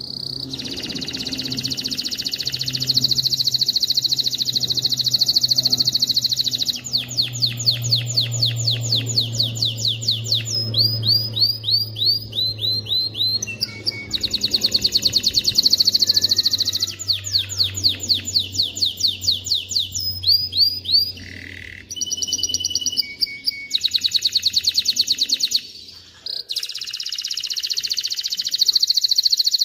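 Male domestic canary singing a long, continuous song of rapid trills, rolls and repeated high notes, with the phrase changing every few seconds and a few brief breaks. A low steady hum lies under the song and stops near the end.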